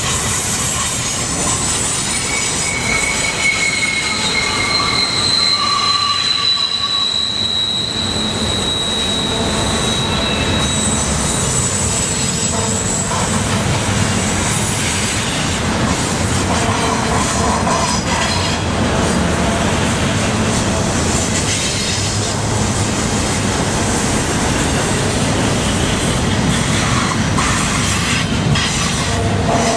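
Double-stack container well cars of a freight train rolling past on a curve, their wheels squealing in high, wavering tones over a steady rumble of wheels on rail. The squeal is strongest in the first half.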